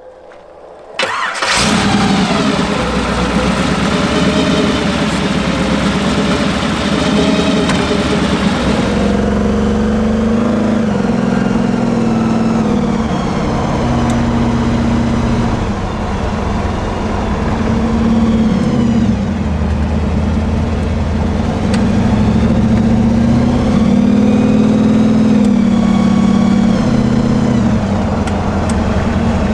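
A '32 hot rod's engine starts about a second in and then runs under way, its pitch climbing and dropping again and again with the throttle.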